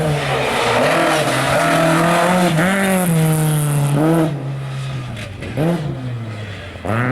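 Ford Escort rally car's engine running hard, its revs rising and falling with gear changes. About four seconds in, the revs drop as the throttle is lifted. A quick rev blip follows, and the engine pulls hard again near the end.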